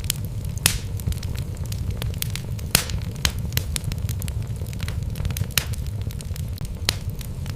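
Wood logs burning in a fireplace: a steady low rumble of flames with irregular sharp crackles and pops from the burning wood. The loudest pops come about a second in, again near three seconds, and near the end.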